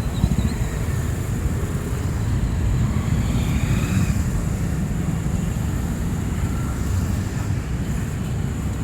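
A steady low rumble of city street traffic.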